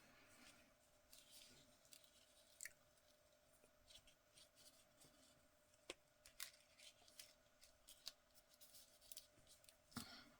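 Near silence: faint room tone with scattered small clicks and rustles of paper and craft tools being handled.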